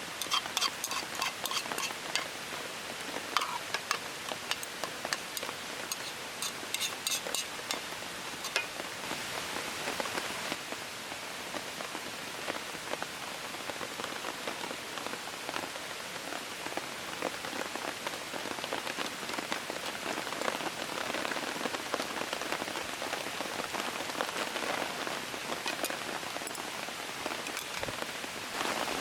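Steady rain falling, with scattered sharp ticks of drops striking through the first several seconds.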